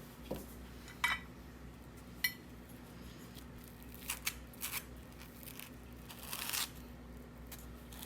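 A handful of short clicks and scraping noises, the kind made by handling objects, over a faint steady hum.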